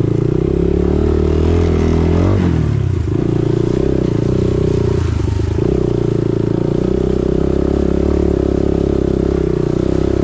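Dirt bike engine running steadily while riding a trail, with the throttle briefly eased off about two and a half seconds in and again around five seconds.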